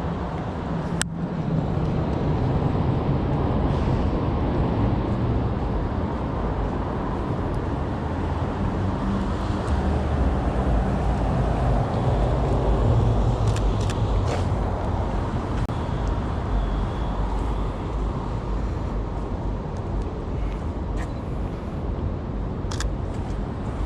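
City street traffic: cars running and passing in a steady wash of road noise, with a few sharp clicks about a second in, around the middle and near the end.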